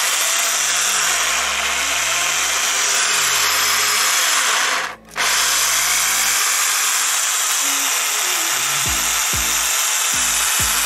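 Bosch PSB 500 electric drill running at speed, its once-seized chuck spinning freely again. It cuts out for about half a second midway, then runs on steadily. Its bearings make a little noise.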